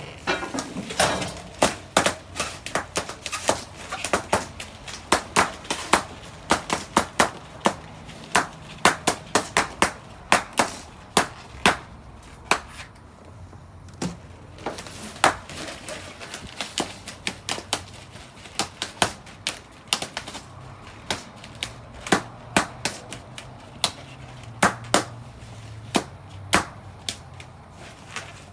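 Balloons popping one after another in quick, irregular succession: dozens of sharp pops, thickest in the first dozen seconds, with a short lull about thirteen seconds in.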